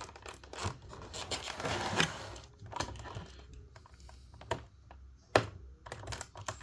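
Tape being cut on a diecast model's cardboard box, with rustling and crinkling of the packaging and scattered sharp clicks, one louder click near the end.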